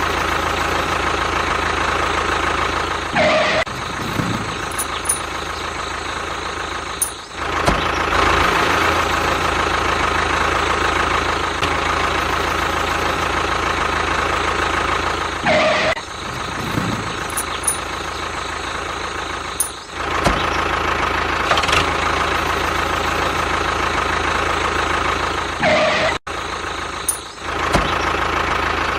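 Engine running steadily, with a few brief breaks in the sound.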